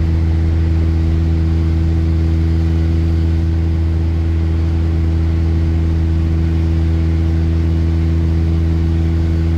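Honda Accord engine and catless exhaust droning at a steady cruise, heard from inside the cabin. It is one low, even hum that holds the same pitch.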